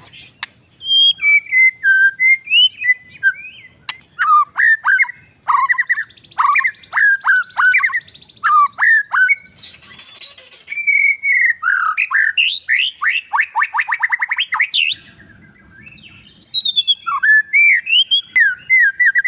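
Oriental magpie-robin (kacer) singing a fast, varied run of loud whistled phrases, with sharply down-slurred notes and quick rattling trills, broken by a couple of brief pauses.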